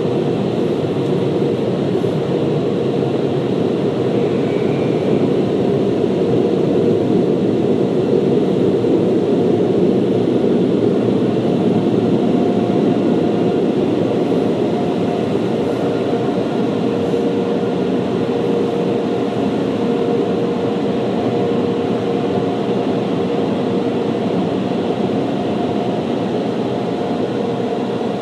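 Automated car wash equipment running, a loud steady rush with a faint hum in it, heard from inside the car's cabin.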